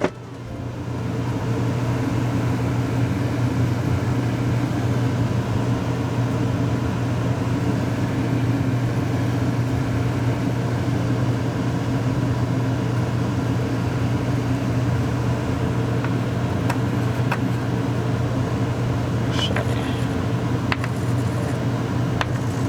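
A steady, loud, low mechanical hum with a constant pitch, with a few light clicks in the last several seconds.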